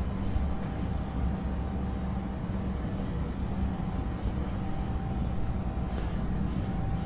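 Steady low rumble with a faint high hum that fades in and out.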